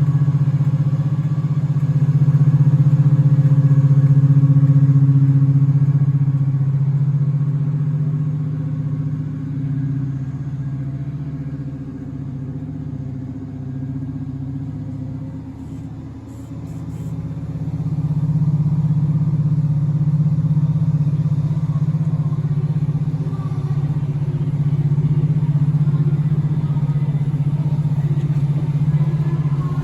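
Class 55 Deltic locomotive's Napier Deltic two-stroke opposed-piston diesel engines running with a steady, deep drone. The drone eases off about a third of the way in and builds back up a little past halfway.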